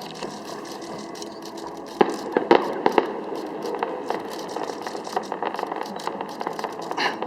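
A fireworks display bursting and crackling, with a cluster of louder bangs about two to three seconds in. Rapid sharp clicks from a nearby camera's shutter run throughout.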